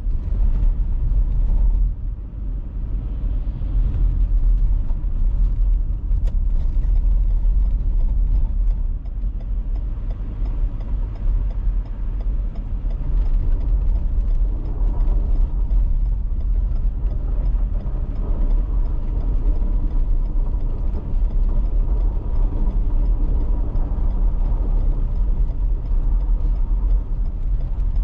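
Car driving on an icy road: a steady, low rumble of engine and tyres.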